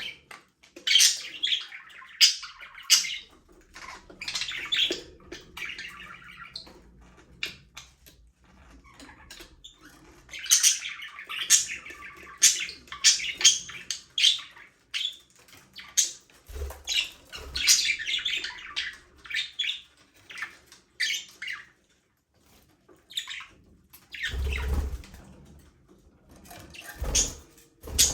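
A flock of budgerigars chirping and chattering in busy bouts of short, high calls, with a couple of lulls. In the second half a few low thumps break in.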